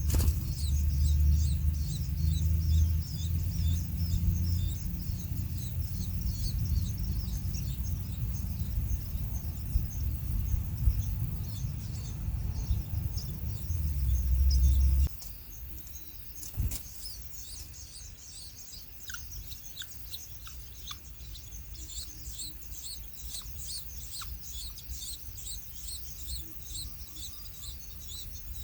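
Small birds chirping in quick, repeated high notes. A low rumble runs under them for the first half and cuts off suddenly.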